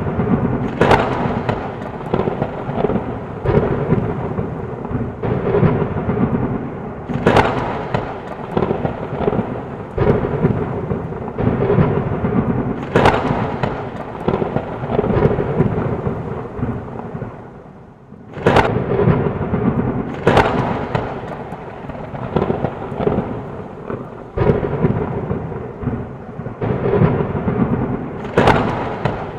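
Heavy rain with rolling thunder. Sharp thunder cracks break through about every five to six seconds. The rain and rumble fall away briefly about eighteen seconds in, then come back with a sudden loud crack.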